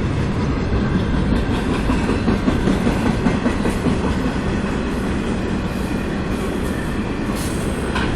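Cars of a CSX train rolling steadily past at close range: a continuous rumble with light wheel clatter over the rail joints.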